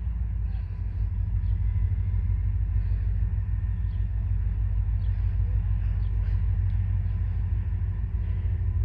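Steady deep rumble of a freight train, with faint engine tones above it.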